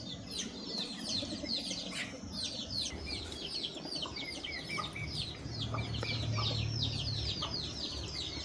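A flock of chicks peeping, many short falling chirps overlapping in a steady stream. A low steady hum joins about five and a half seconds in.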